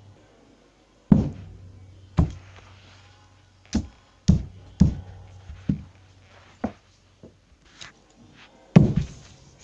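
A hammer striking a Lego boat, about nine blows at uneven spacing, with the hardest blows near the start and the end.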